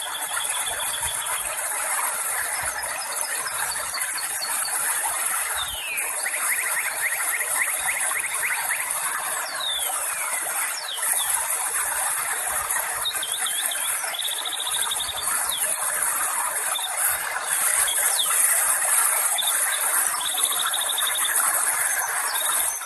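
Outdoor natural ambience: a steady high hiss under birds calling in short falling whistles and quick trills, several times over.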